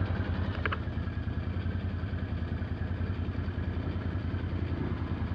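Off-road vehicle engine running steadily at low revs, an even low throb, with a brief high squeak a little under a second in.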